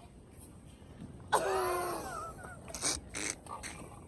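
A person's short, high-pitched wordless vocal exclamation, its pitch wavering, followed by a few sharp clicks or knocks.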